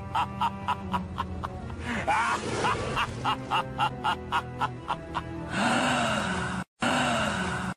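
Short sound-effect clips: a rhythmic music-like clip with about four sharp beats a second, then a louder, brighter effect with sliding pitch that cuts out briefly and stops abruptly.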